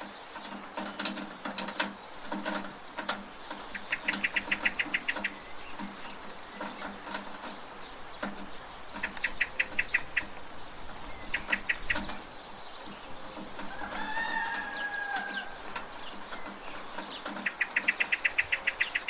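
Village chickens clucking over a steady hiss of rain. Rapid high trills repeat several times, and a drawn-out, falling fowl call comes about fourteen seconds in.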